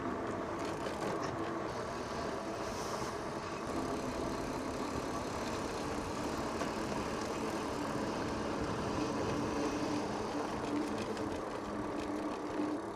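Bicycles rolling along a path: a steady rolling noise with a faint hum.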